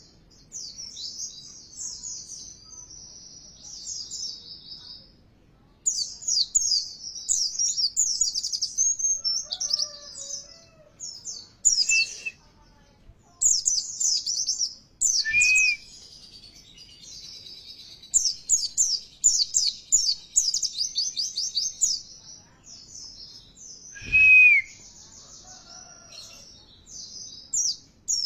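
White-eye (pleci) song: fast, high twittering in bursts of a few seconds with short pauses, the kind of pancingan recording played to provoke pet white-eyes into singing. A few lower, clearer whistled notes stand out, the loudest about 24 seconds in.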